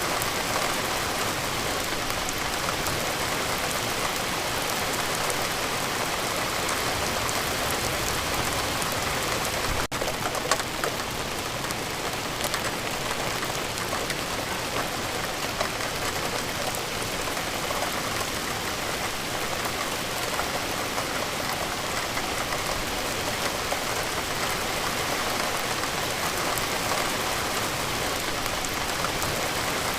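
Steady rain falling: a dense, even hiss of drops hitting a surface, with scattered sharper drop ticks. A momentary break in the sound about ten seconds in.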